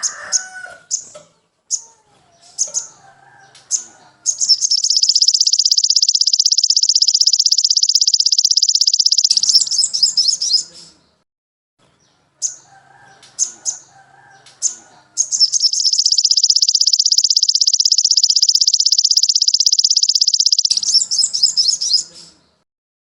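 Songbird calls from a bird-song training recording. Short high chirps and lower warbling notes are broken by two long, even, buzzing trills of about five seconds each.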